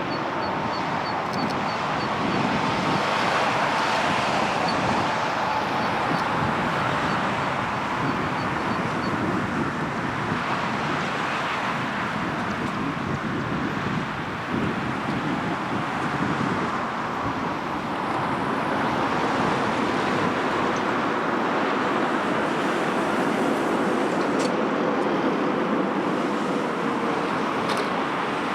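Jet airliner engines heard in a steady roar, with a faint engine whine that slowly shifts in pitch.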